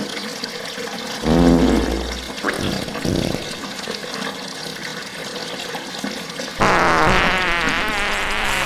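Slowed-down, reverb-heavy fart sounds. A short low fart comes about a second in, followed by a few small sputters, then a louder, longer, wavering one starts about two-thirds of the way through.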